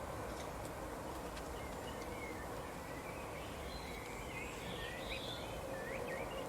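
Small birds chirping in short, scattered calls over a steady outdoor background hiss and low rumble, the chirps busiest about four to five seconds in.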